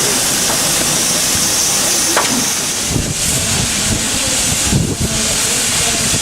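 Steam locomotive giving off a steady hiss of escaping steam, with a low rumble coming in about halfway.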